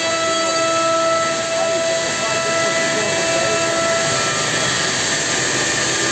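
Homag CNC machining centre running: a steady high whine of the spindle, with several held tones, over a loud even hiss.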